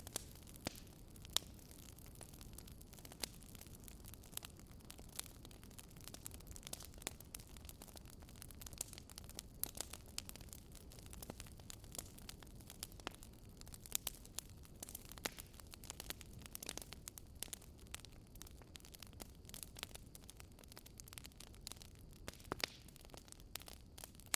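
Wood campfire crackling: irregular sharp pops and snaps over a soft, steady low rush.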